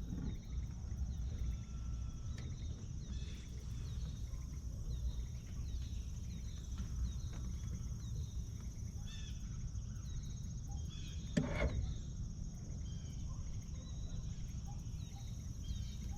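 Outdoor riverside ambience: a steady high insect chorus, scattered small bird chirps, and a low steady rumble underneath, with one short louder sound about eleven seconds in.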